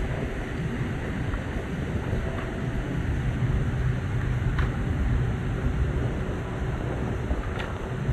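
Steady low rumble with wind buffeting the microphone, and two faint ticks about four and a half and seven and a half seconds in.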